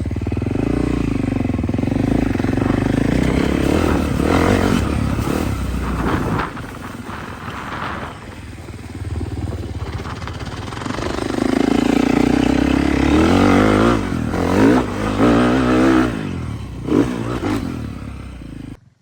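Off-road vehicle engine revving hard and easing off, its pitch rising and falling, as it is ridden up to a jump ramp, with a few sharp knocks in the second half.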